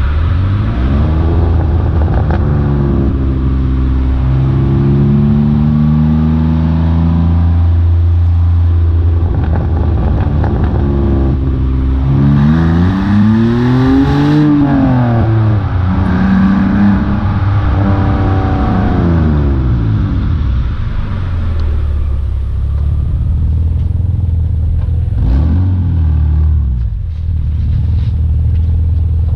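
BMW E46 330Ci's 3.0-litre inline-six exhaust note, its revs climbing in several steps, then a rev rising and falling again about halfway through. Near the end it runs steadier, with a few short blips.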